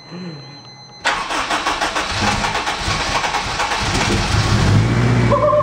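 Freshly rebuilt Honda K20A2 inline-four engine starting up on its first startup. It catches suddenly about a second in, runs unevenly, then settles into a steady idle near the end.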